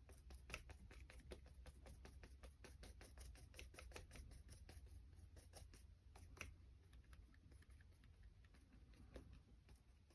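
Faint, quick, irregular taps and scratches of a paintbrush working wet paint on watercolour paper, several a second, over a low steady hum.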